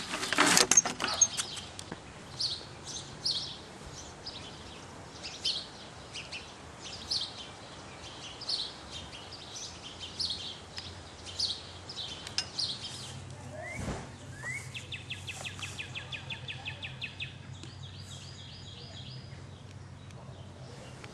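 A wooden fence gate and its metal latch rattle loudly in the first second or so. Then a bird chirps repeatedly, a short high call about once a second, with a fast trill for about five seconds in the second half.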